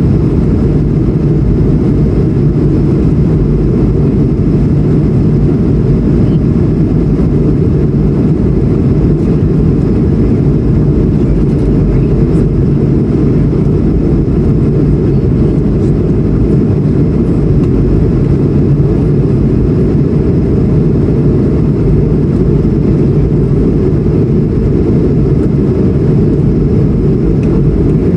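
Steady, loud low rumble of an Airbus A220-100 jet cabin, the drone of its Pratt & Whitney PW1500G geared turbofans and airflow, holding an even level with no change in pitch.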